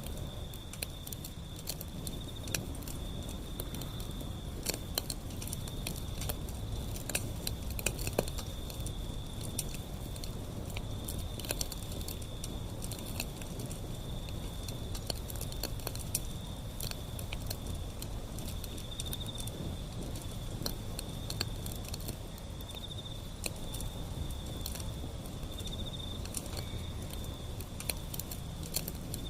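Wood fire burning, crackling and popping irregularly over a low rumble, with a steady high trill running behind it.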